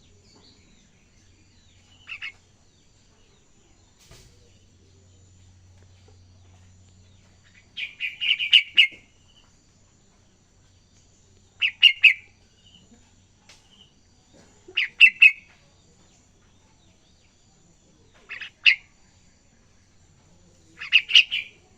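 Young yellow-vented bulbul practising its song: six short bursts of rapid chirping notes, a few seconds apart.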